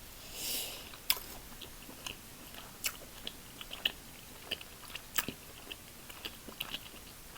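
Close-miked eating of a seafood boil: irregular wet mouth clicks, snaps and crunches of biting and chewing, after a short hiss about half a second in.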